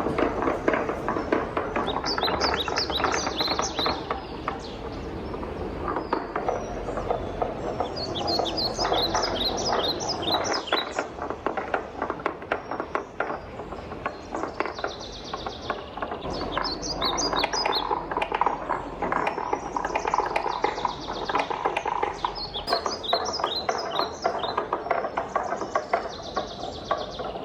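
Wooden balls rolling and clattering down a wooden marble run: a continuous rolling rumble full of quick, irregular clicks and knocks as the balls hit the track and each other. Short bursts of high chirping come in every few seconds.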